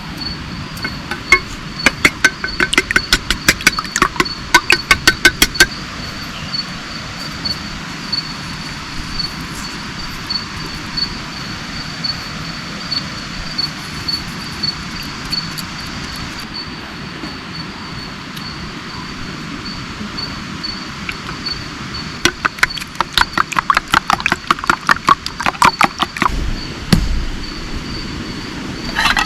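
Steady rain with a continuous high-pitched insect trill. Twice, a run of rapid, loud, sharp clicks: one about a second in lasting several seconds, and another near the end.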